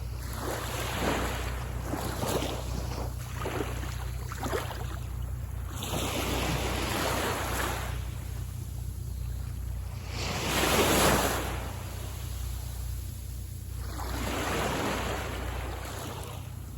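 Waves breaking and washing up a beach in a series of surges, the biggest about eleven seconds in, over a steady low rumble of surf and wind on the microphone.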